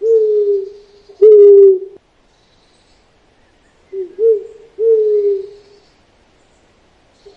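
Owl hooting: low, slightly falling hoots, a pair in the first two seconds, then a cluster of three about four to six seconds in.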